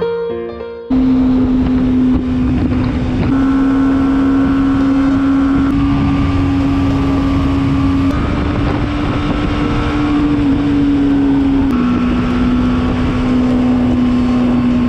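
BMW G 310 GS motorcycle's single-cylinder engine running at a steady cruising speed, with wind rushing over the microphone. Starts suddenly about a second in; the engine note steps slightly up and down a few times.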